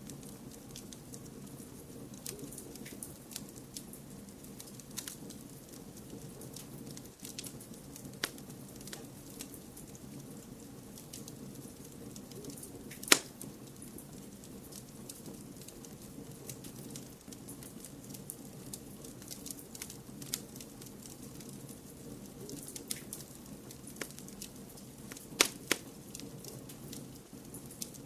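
Wood fire crackling over a steady low hiss of blended white noise, with scattered sharp pops. The loudest single pop comes about halfway through, and two more strong ones come close together near the end.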